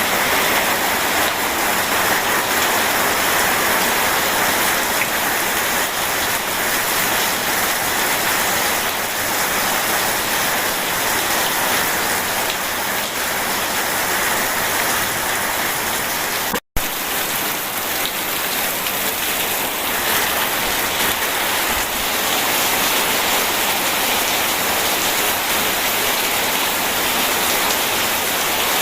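Steady, heavy rain hissing evenly, with a split-second drop to silence about seventeen seconds in.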